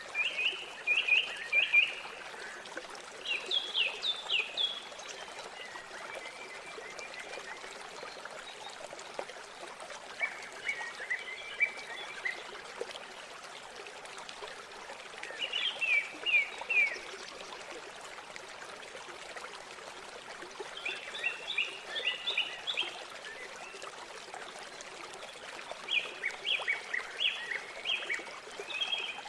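Small songbirds singing short phrases of rapid high chirping notes every few seconds over the steady rush of flowing river water.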